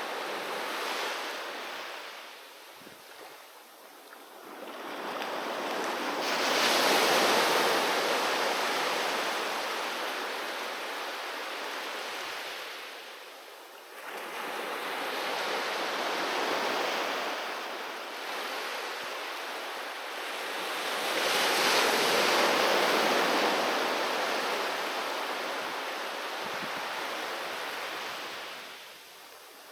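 Sea waves breaking on the shore and washing back. Three big surges, about six, fourteen and twenty-one seconds in, each swelling up and then fading away slowly.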